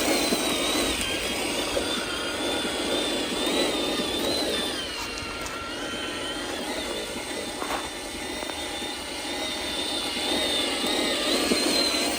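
Small electric motors and gearboxes of a radio-controlled construction model running, a thin whine that wanders up and down in pitch over a steady gear grind.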